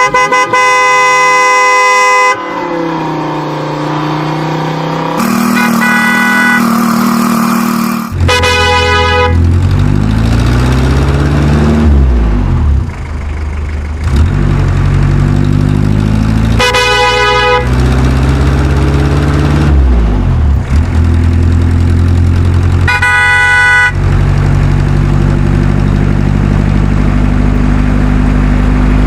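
Truck horn sounding four times, the first about two seconds long and the others shorter, over a loud engine that revs up and down between them.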